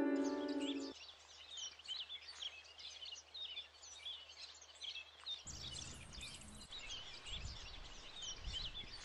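Many small birds chirping and twittering in the background, a steady scatter of short calls. A plucked-string music phrase ends about a second in.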